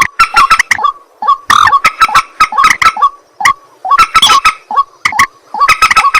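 Rails calling: a loud, fast series of short, harsh croaking and clucking notes, coming in dense runs with sparser stretches between.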